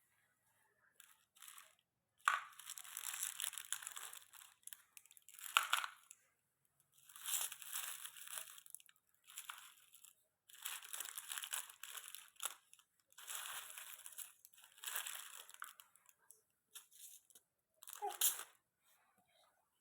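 Candies being loaded into a trolley, crunching and crinkling in a series of short bursts of one to two seconds each.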